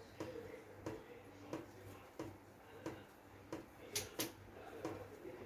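Faint scattered clicks and taps of seasoning containers and kitchen utensils being handled, with two sharper ticks about four seconds in.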